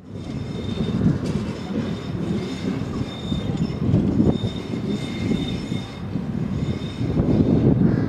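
Tram running on steel rails: a low rumble of wheels with an intermittent high squeal from the wheels and a couple of sharp clicks, about a second and four seconds in.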